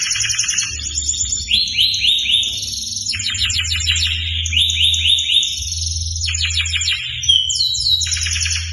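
Canary singing continuously: fast trills of rapidly repeated notes and downward-sweeping phrases, switching to a new phrase every second or so, over a low steady hum.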